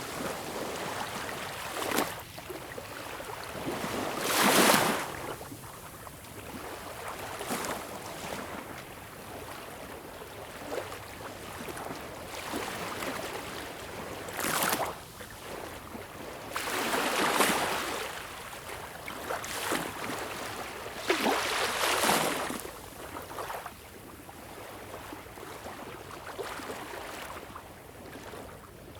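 Small, calm sea waves lapping at a beach: a steady wash of water with a wave breaking and swishing up the shore every few seconds, the biggest splashes about a third of the way in and again twice in the second half.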